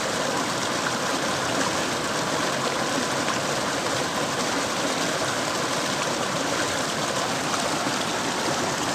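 Mountain river water flowing and rushing in a steady, even stream.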